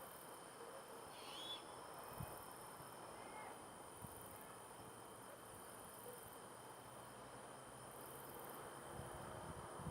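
A short, high, wavering screech about a second in, and a fainter short call a couple of seconds later, from an unseen animal in the night sky. Night insects trill steadily in the background.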